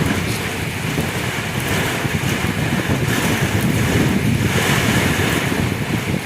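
Kalbaisakhi (nor'wester) thunderstorm: strong wind gusting with heavy rain, the wind buffeting the microphone.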